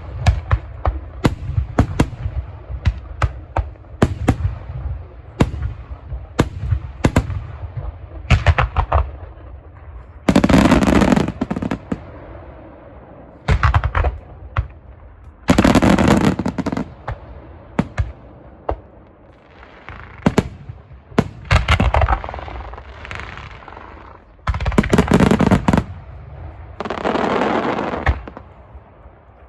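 Aerial fireworks exploding in quick succession: many sharp bangs, broken by several denser bursts of a second or two each.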